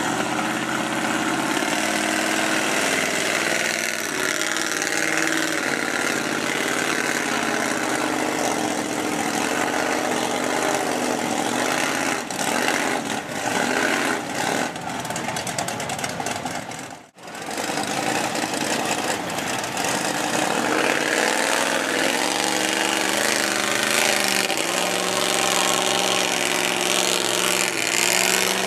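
Truck engine running and revving in mud, its pitch rising and falling, with a sudden short break about 17 seconds in.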